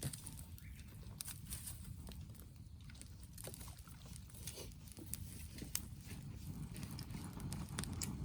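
Wood campfire burning, with irregular crackles and sharp pops over a low steady rumble.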